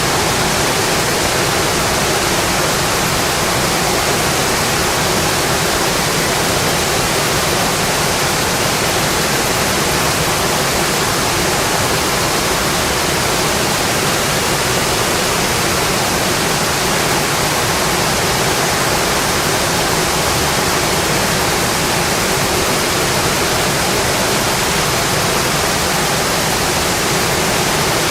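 Rain falling steadily: a dense, even hiss that does not let up.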